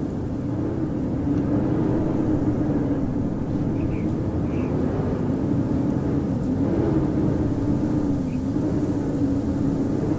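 Howling winter wind: a steady rushing blizzard gust with a low moaning tone that wavers slowly up and down in pitch. A few faint, short high chirps sound near the middle and again later.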